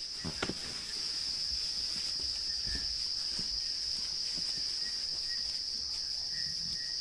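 Steady, high-pitched chorus of crickets, with a few faint low knocks about half a second in.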